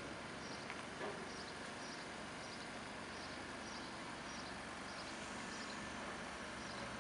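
Steady outdoor yard noise with a faint low hum. A small bird repeats a short high chirp a bit under twice a second. There is a single light knock about a second in.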